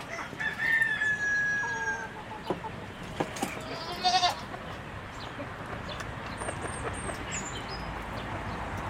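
Chickens calling: a rooster crows once near the start, a long call falling slightly in pitch, and a short trilling call follows a few seconds in. Faint high chirps come later.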